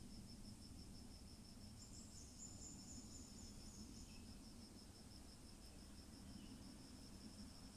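Faint insects chirping in a steady, rapid pulse of about six high chirps a second, with a second, higher trill joining for a couple of seconds near the middle.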